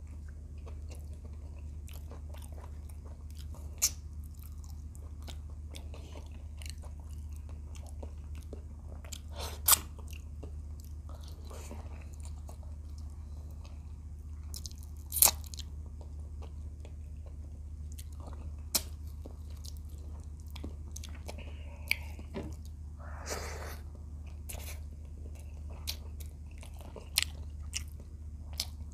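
A person chewing fried tilapia and rice with the mouth close to the microphone, with sharp lip smacks or crunches every few seconds, over a steady low hum.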